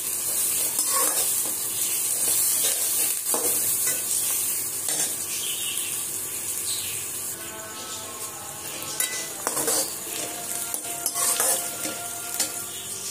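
Sliced onions and green chillies sizzling in oil in a metal kadai, with a spatula stirring and scraping against the pan every so often.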